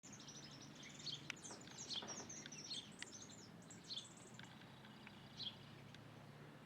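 Small birds chirping: a flurry of many quick, high chirps for the first three seconds or so, then single chirps every second or two. A faint steady low hum runs underneath.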